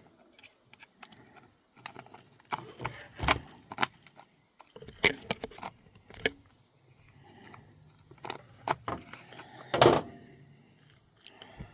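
Small metal parts and tools clinking and knocking in irregular handling: mount bolts being fitted into the engine plate of an RC nitro truck. The loudest knocks come about three seconds in and near the end.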